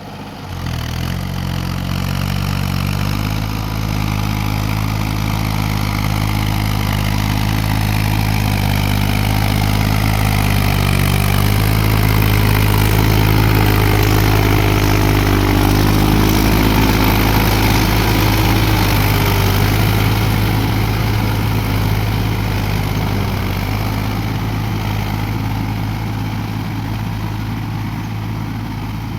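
Mahindra Yuvo 4WD tractor's diesel engine running steadily, its note shifting a little a few times.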